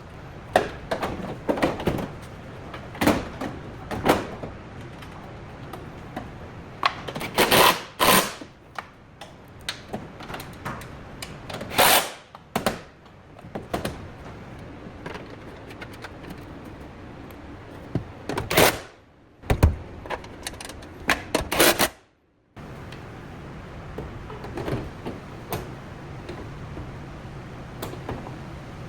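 Workshop tool noise: irregular sharp clicks and knocks, with a few longer, louder scraping bursts, as hand tools work on car body parts. The sound cuts out briefly about 22 seconds in.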